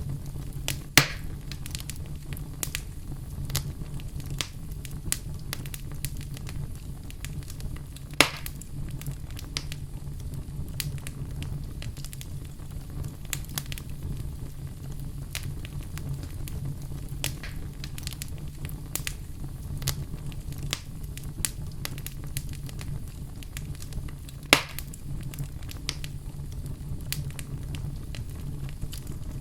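Fire burning in a fireplace, crackling steadily with frequent small snaps over a low steady rumble. Three louder pops stand out: about a second in, around 8 seconds and near 25 seconds.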